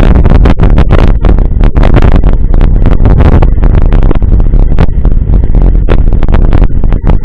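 Heavy wind rumble on a camera microphone carried on a moving mountain bike, with frequent knocks and rattles from riding over rough ground.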